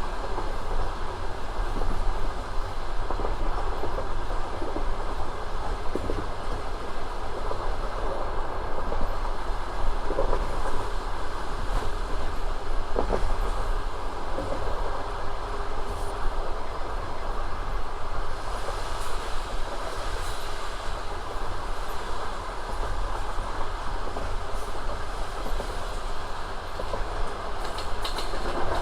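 Passenger train carriage running steadily along the line: a continuous rumble with the clatter of wheels over the rails and a few sharp knocks.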